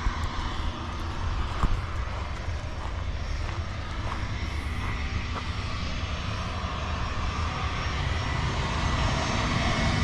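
Steady low rumbling noise, with a sharp click about a second and a half in and a few fainter ticks after it.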